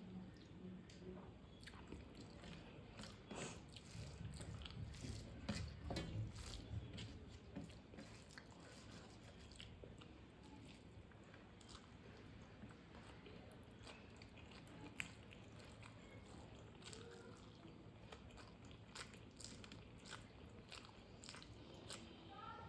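A person eating close to the microphone: chewing and biting with soft crunches and small wet mouth clicks, busiest a few seconds in.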